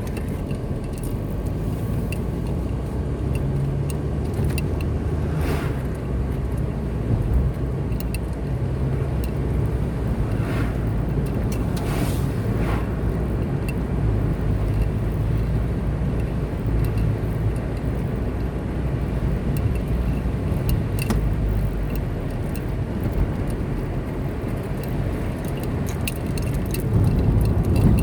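Car driving along a road: steady low engine and tyre rumble, with a few brief whooshes rising out of it.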